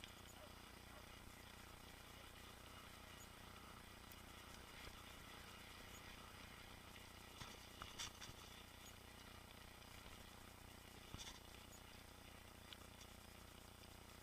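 Faint, muffled mountain bike riding noise: a low, even rumble of tyres on the trail, with a few short clicks and rattles from the bike about halfway through and again near the end.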